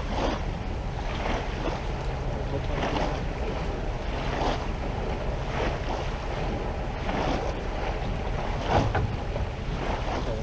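A boat's outboard motor running steadily under heavy wind noise on the microphone, with choppy water splashing against the hull every second or so.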